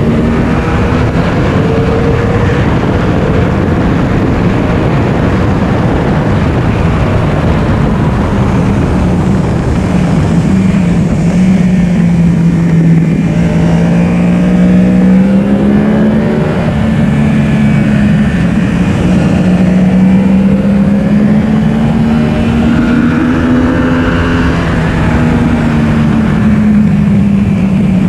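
Yamaha R1's inline-four engine at speed on track, its note rising and falling through the revs, under a steady rush of wind noise.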